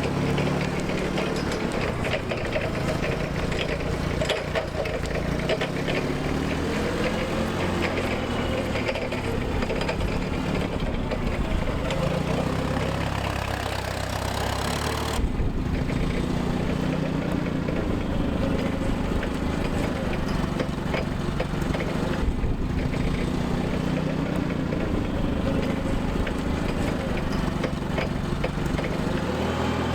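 Clark forklift's engine running steadily, its pitch rising and falling gently now and then.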